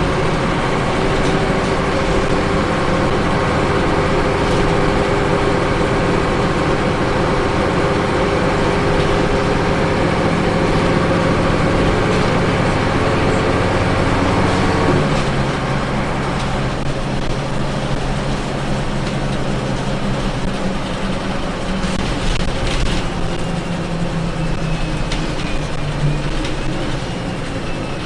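Scania L94UB ethanol-powered bus engine running under way, its note rising slowly, then dropping abruptly about halfway through to a lower, steadier tone.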